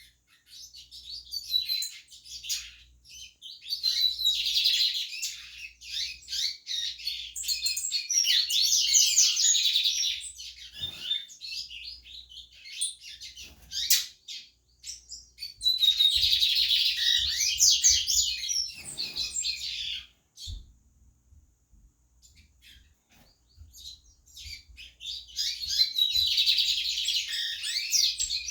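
Captive Sporophila seedeater singing: long bouts of fast, high twittering song, broken by two short pauses.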